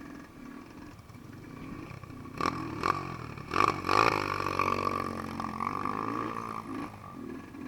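Dirt bike engine revving up and down, with a cluster of sharp knocks and clatter between about two and a half and four seconds in, the loudest part.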